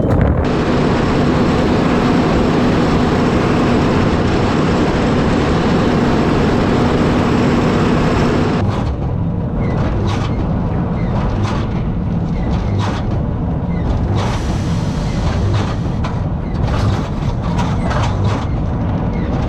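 Tractor and baler working: a steady engine hum with a constant drone, which drops away about eight seconds in, leaving regular low knocks and rattling clicks.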